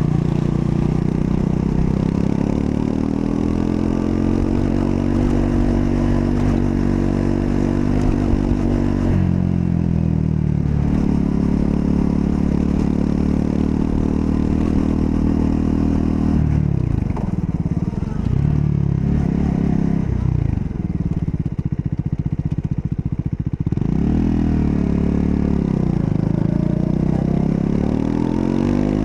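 Triumph Scrambler 400 X's single-cylinder engine under way, its pitch climbing through the gears with an upshift about nine seconds in. In the middle stretch the revs fall and rise several times as the throttle is rolled off and back on, before it pulls steadily again.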